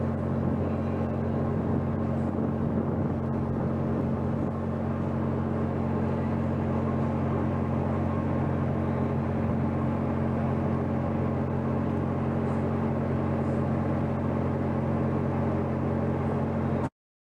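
Steady low drone of a Coast Guard cutter's engines and machinery under way, a constant hum of several low tones over a rushing noise. It cuts off abruptly shortly before the end.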